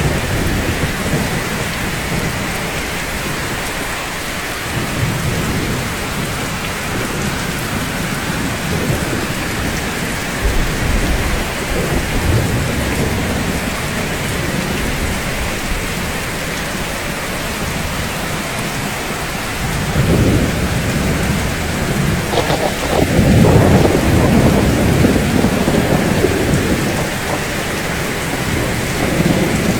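Steady, heavy rainfall hissing, with low rolling rumbles of thunder that swell and fade. The longest and loudest peal comes about two-thirds of the way through.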